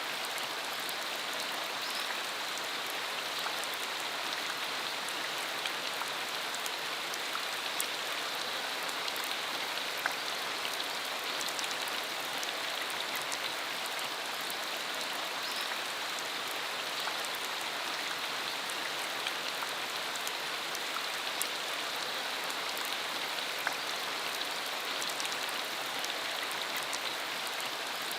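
Steady rain shower: an even, constant hiss of falling rain with many small, sharp drop ticks scattered through it.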